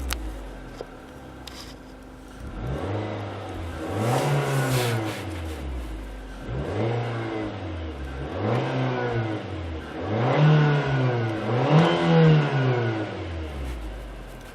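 2013 Nissan Juke Nismo's turbocharged 1.6-litre four-cylinder engine revved in a series of about six quick blips, each rising and falling in pitch, the loudest near the end.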